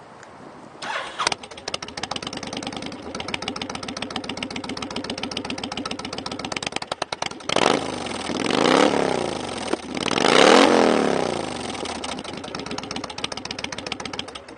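Honda VTX1300S's 1300cc liquid-cooled V-twin with an aftermarket Cobra exhaust starting about a second in and settling into an even, pulsing idle. It is revved twice, about eight and ten and a half seconds in, each time rising and falling back to idle.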